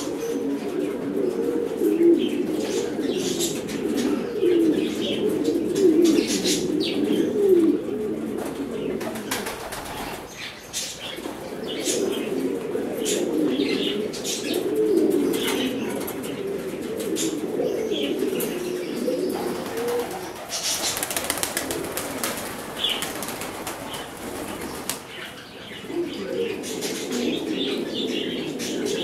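A loft full of domestic pigeons cooing together in a continuous low burble, with wings flapping now and then.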